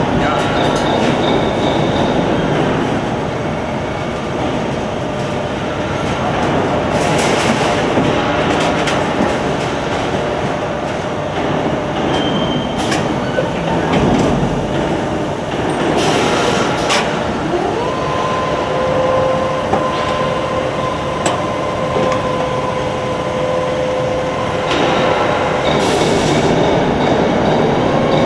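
Sheet-metal HVAC duct auto line running: a continuous machinery clatter and rumble, with short bursts of high hiss about every nine seconds. A little past halfway a motor whine rises in pitch and then holds steady.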